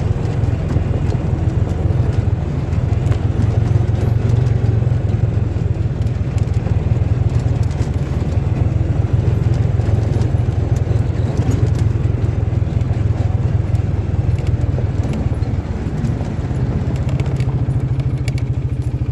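An engine running steadily with a low, evenly pulsing note, dipping slightly about sixteen seconds in.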